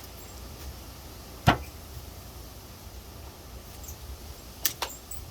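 A single sharp knock about a second and a half in, then two quick clicks close together near the end: hand tools and parts striking during work on a hydraulic cylinder.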